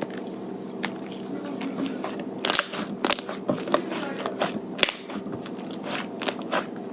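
Clay slime being mixed, crackling and popping in irregular sharp clicks that come thick and fast from about two and a half seconds in.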